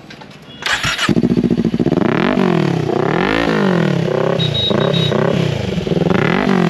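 Kawasaki Ninja 400 parallel-twin starting through an Akrapovic exhaust with the dB killer removed: a brief starter crank about half a second in, the engine catches, then it is revved in several blips that rise and fall in pitch. Very loud with the baffle out.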